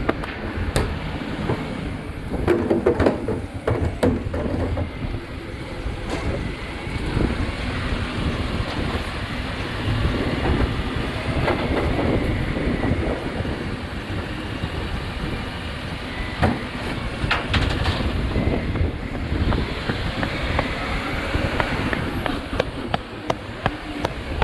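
A waste collection truck's engine running, with scattered clanks and knocks, and wind buffeting the microphone.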